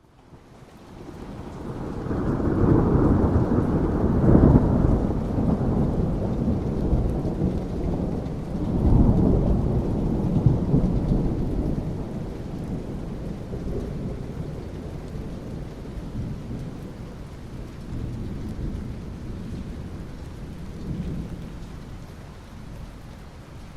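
Thunder rumbling over steady rain. The rumble swells in over the first couple of seconds, peaks twice, about four and nine seconds in, then slowly dies away under the rain.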